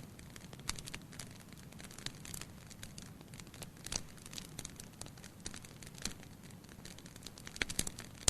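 Firewood burning in a fireplace, crackling: irregular snaps and pops over a low steady hiss of the flames, with a sharper pop about four seconds in and a quick cluster of pops near the end.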